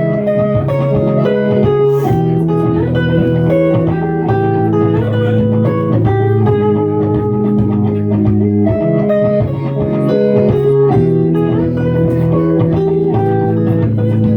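Electric guitar playing an instrumental passage of sustained, melodic notes over a steady low bass line.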